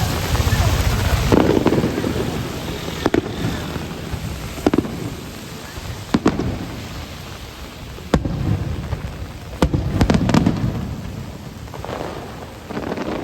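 Aerial firework shells bursting one after another: about seven sharp cracks, several followed by deep rolling booms, over a steady hiss of rain.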